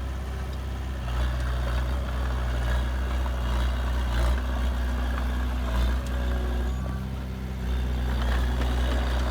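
Heavy diesel engine of earthmoving machinery running with a steady low drone, easing off briefly a couple of times past the middle.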